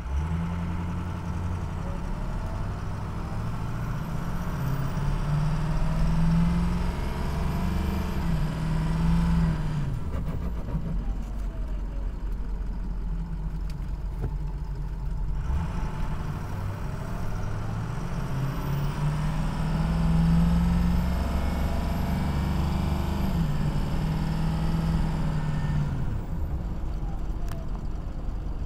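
Ford 6.0 Powerstroke V8 turbodiesel running, its engine speed climbing in steps and dropping back twice, with a faint high whistle rising and falling with it. The engine has a bad EGR cooler.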